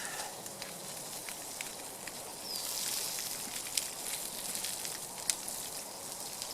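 Wood campfire crackling under a grill: a steady high hiss with sharp pops scattered through it, the hiss swelling for a moment about two seconds in.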